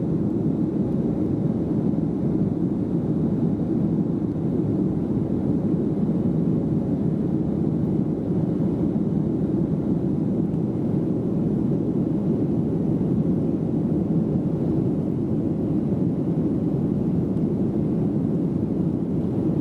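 Airliner in flight: a steady, unchanging low drone of engines and rushing air, heard from inside the cabin.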